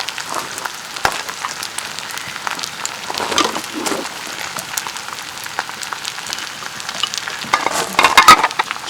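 Food sizzling in a hot pan: a steady hiss with small crackles, and a short run of knocks about eight seconds in.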